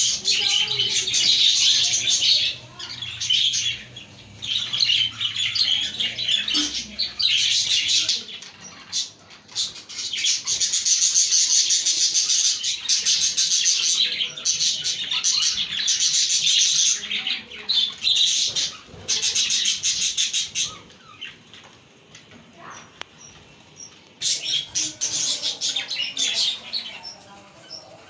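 A flock of budgerigars chattering and warbling in fast, dense chirps, coming in bouts with short lulls.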